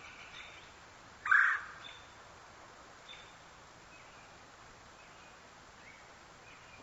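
Outdoor bird calls: one loud, short call about a second and a half in, followed by several faint, brief, high chirps.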